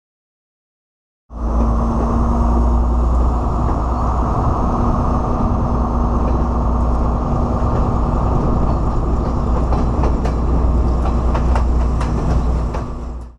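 Train running along the track: a loud, steady low rumble with a constant hum, starting abruptly about a second in. Sharp rail clicks come through near the end.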